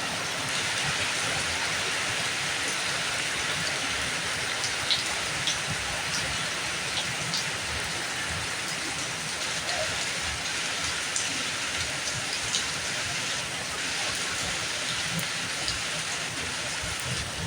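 Steady rain falling: an even hiss with scattered sharper drops tapping on surfaces.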